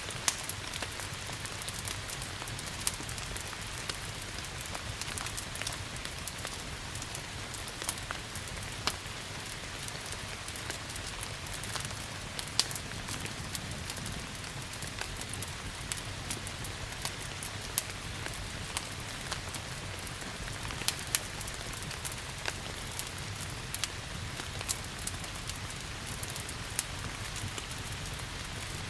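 Steady rain hissing alongside a crackling wood fire, with irregular sharp pops and snaps scattered throughout.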